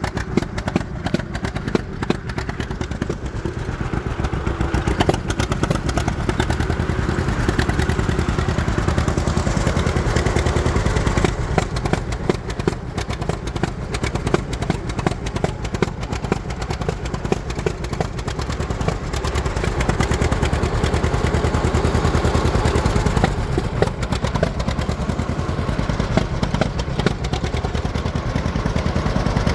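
John Deere Model A tractor's two-cylinder engine, running on propane and pulling along steadily with a rapid, even firing beat. It is running lean because it is nearly out of propane.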